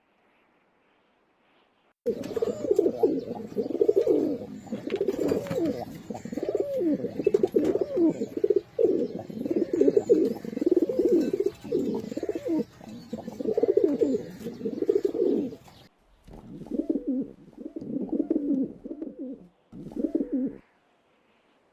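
Pigeons cooing in a dense run of overlapping low coos. The cooing starts about two seconds in, breaks briefly, resumes, and stops shortly before the end.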